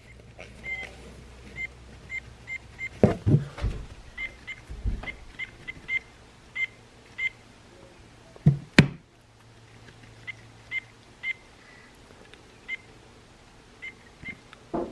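The recorded bird call from a Wild Republic plush hermit thrush's sound box, played through its small speaker: a long run of short, evenly spaced high call notes. Handling knocks come a few times, the loudest about three seconds in and again a little before the middle.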